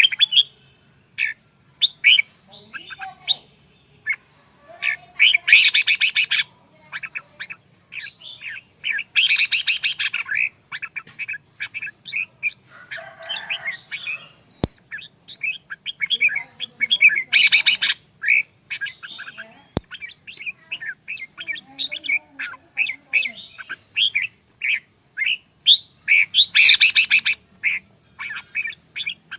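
Red-whiskered bulbul (chào mào) singing: rapid runs of short chirping notes, broken by several louder, harsher bursts of calls.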